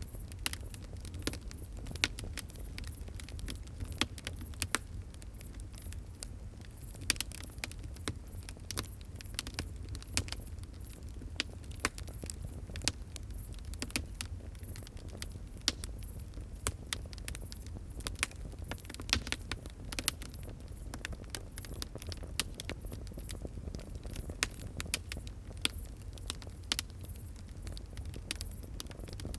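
Wood fire crackling: irregular sharp pops and snaps several times a second over a low, steady rumble of burning.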